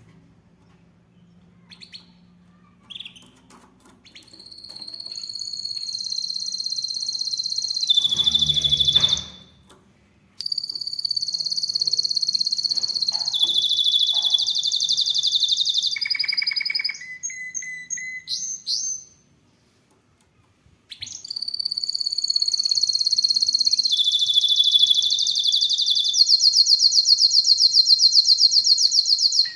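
Canary singing: long phrases of rolling trills and held high notes, broken by short pauses, ending in a very fast, even trill. About eight seconds in, a short, loud, noisy burst sounds with a low rumble under it.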